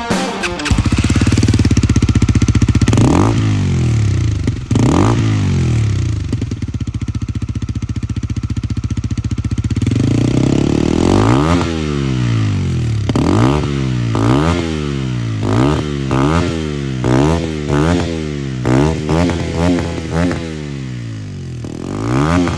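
Voge Brivido 125's single-cylinder 125 cc engine breathing through a GPR Furore Nero aftermarket exhaust, idling and blipped on the throttle: two revs, a few seconds of steady idle, then a quick run of about a dozen short revs coming faster toward the end.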